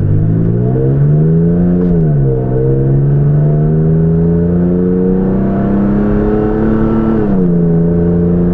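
Toyota Tacoma with a MagnaFlow Overland cat-back exhaust accelerating hard from a stop, heard from inside the cab. The engine note rises and drops at an upshift about two seconds in, climbs steadily again, and drops at a second upshift near the end.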